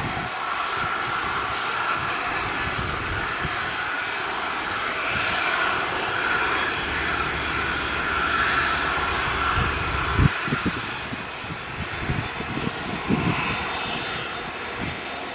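Airbus A320neo's CFM LEAP-1A jet engines running, a steady rush of jet noise with a faint whine. A few short low thumps come about ten to thirteen seconds in.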